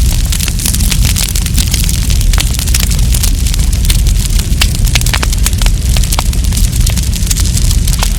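Wood campfire burning: a dense run of sharp, irregular crackles and pops over a steady low rumble.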